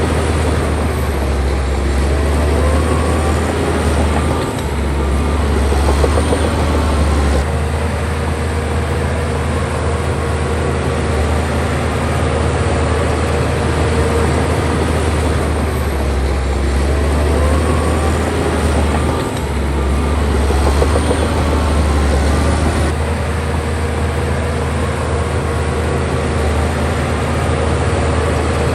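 Bulldozer's heavy diesel engine running steadily and loudly, easing and picking up again a couple of times.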